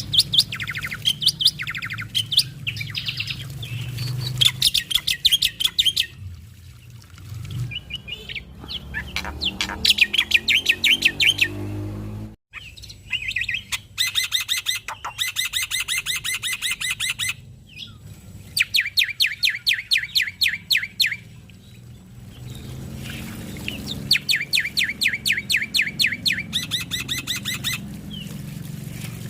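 Male black-winged myna (jalak putih) singing in bouts of fast, rapid-fire chattering notes, each bout a couple of seconds long, with short pauses between, over a steady low background hum.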